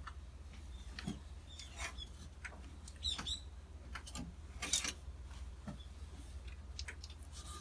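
A few short, faint bird chirps, the clearest about three seconds in, among scattered light clicks over a low steady hum.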